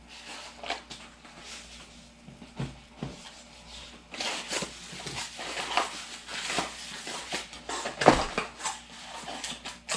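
Shower head parts and their packaging being handled: irregular small clicks, knocks and rustling, busier in the second half, with one sharper knock about eight seconds in.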